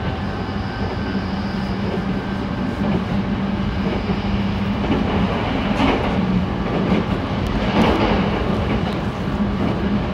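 Train running as it accelerates away from its starting station, heard from inside the carriage: a steady rumble of running noise with a low hum, and a couple of louder surges from the wheels about six and eight seconds in.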